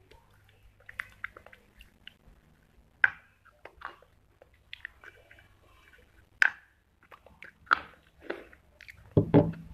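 A person biting and chewing dry clay close to the microphone: sharp, separate crunches about once a second, with a louder cluster of mouth sounds near the end.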